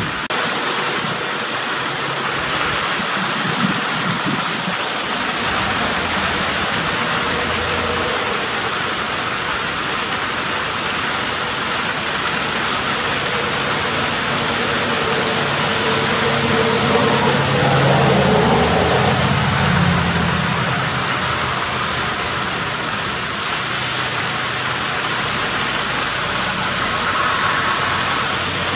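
Steady heavy rain falling, an even loud hiss. About two-thirds of the way through, a low droning sound swells and fades.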